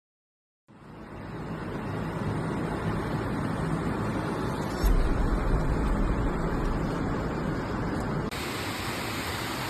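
A steady rushing noise fades in after a moment of silence, with a low rumble about five seconds in and an abrupt shift in the noise near the end.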